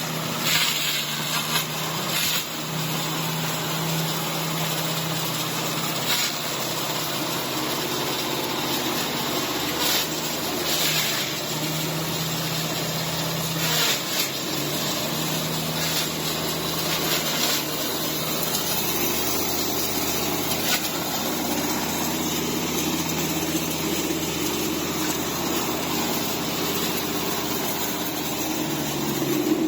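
Hammer mill corn grinder running steadily while crushing dry maize, a continuous machine hum with a few sharp ticks scattered through it.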